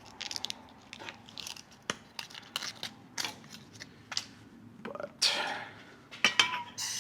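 Intermittent metal clicks and scrapes of hand tools working on a turbocharger, taking off its tabs, with a louder scrape about five seconds in. Right at the end a loud steady rushing noise starts.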